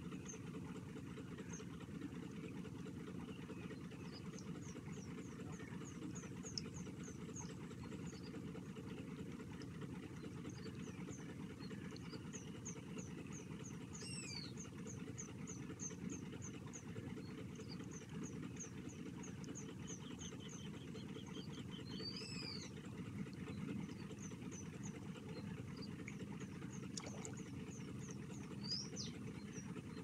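Birds chirping in quick runs of short, high notes over a steady low rumble, with two louder falling calls, about a third of the way in and again past halfway.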